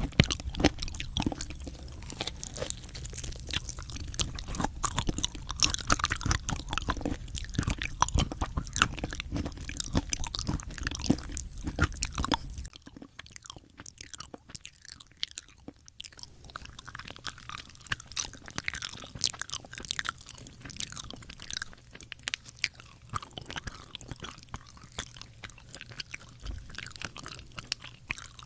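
Close-miked eating sounds: chewing and crunching with many sharp crackles. About 13 seconds in it cuts abruptly to a quieter stretch of chewing.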